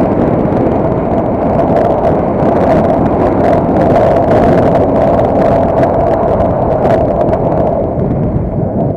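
A vehicle in motion, with its running noise and wind buffeting the microphone, a steady loud rumble with a scatter of irregular clicks and knocks. It eases off slightly near the end.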